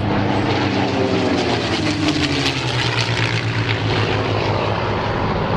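Propeller aircraft flying past with its engine running loud and steady, the pitch falling as it goes by.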